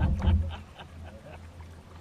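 A kayak paddling on floodwater: a loud low thump right at the start, then a steady low rumble.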